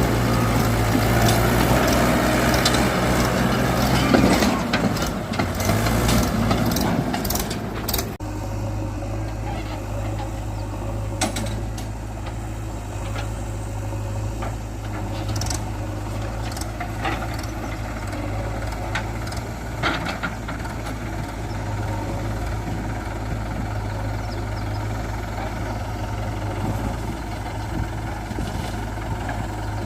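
Swaraj 843 diesel tractor engine running under load. It is louder and rougher for the first several seconds, then drops abruptly about eight seconds in to a steadier, quieter run with a few scattered clicks and knocks.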